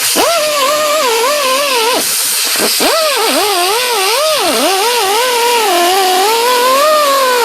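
High-speed electric power tool whining as it works. Its pitch drops repeatedly and climbs back as the motor bogs under load and recovers.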